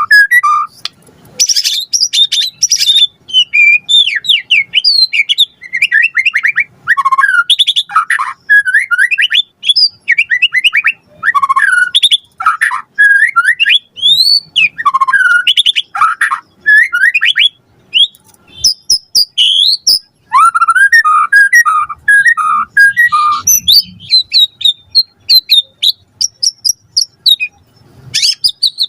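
White-rumped shama (murai batu) singing a loud, fast, ever-changing song of whistles, sweeps and trills, packed with mimicked phrases. A run of quick repeated notes comes about three-quarters of the way through.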